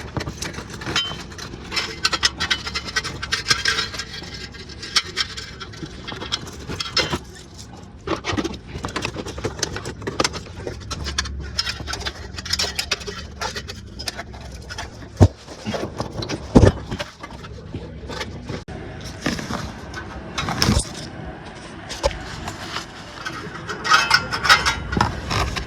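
Irregular rattling and scraping clicks over a low rumble, with a few sharp knocks in the middle and near the end: the low-speed rattle of a 2009 Acura MDX around 1500–2000 rpm.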